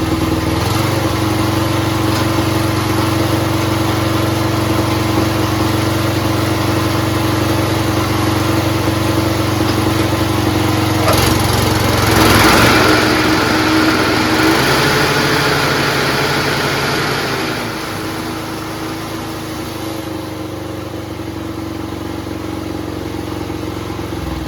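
Small engine in a 1959–64 Penncraft lawn tractor running steadily while it drives the mower deck blades. A louder rushing swell comes in about eleven seconds in and fades by about fifteen seconds, and the engine settles lower and quieter about eighteen seconds in.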